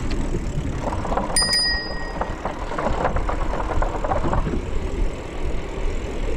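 Mountain bike rolling over a loose surface, tyres crackling with wind rumble on the microphone. A single high metallic ring sounds about a second and a half in and fades over about a second.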